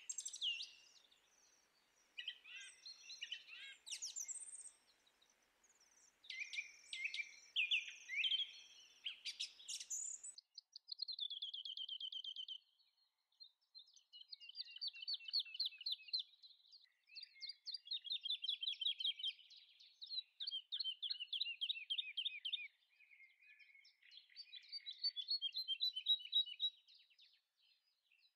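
Songbird singing: varied chirps and whistles at first, then a series of rapid trilled phrases from about ten seconds in.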